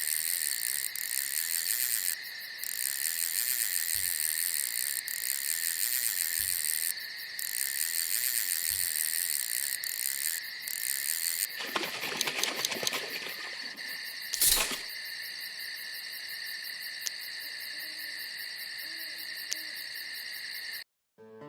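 Night insect chorus: crickets trilling steadily in several high, even bands. About twelve seconds in there is a rustling noise, then a single sharp knock, and the chorus cuts off just before the end.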